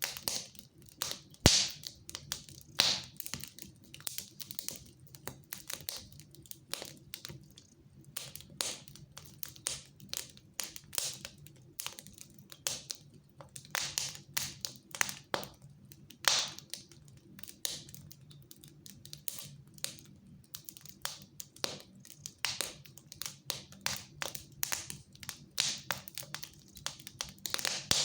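Wood fire crackling in a fireplace: irregular sharp pops and snaps, several a second, with the loudest about one and a half seconds in, over a faint low hum.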